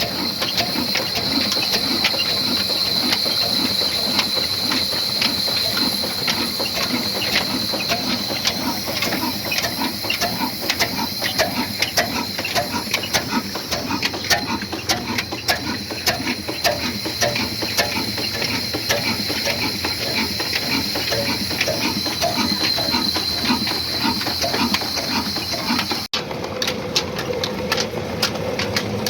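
Old black slow-speed diesel engine of 22 HP running, a dense run of rapid, even mechanical clicks and knocks. About three seconds before the end the sound cuts abruptly to a steadier hum.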